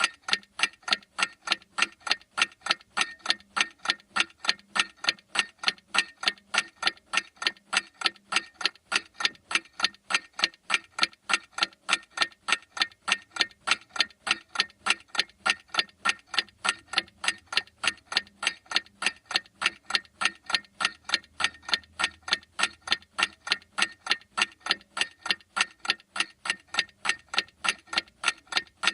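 Clock ticking steadily, sharp even ticks at a constant rate with no break.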